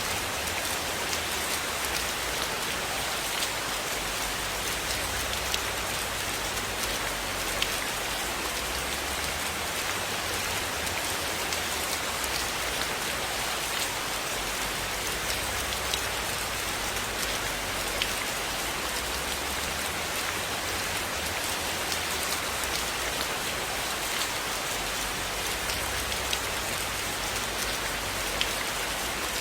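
Steady rain falling, an even hiss with scattered sharp ticks every second or two.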